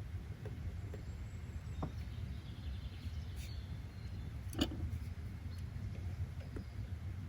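Steady low rumble of background ambience with scattered faint clicks and one sharper click a little past the middle.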